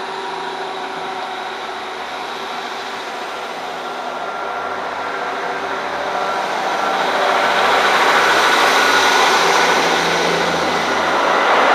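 Class 158 diesel multiple unit running, a steady engine and rail noise with a few held tones, growing louder over the second half and loudest about eight to ten seconds in.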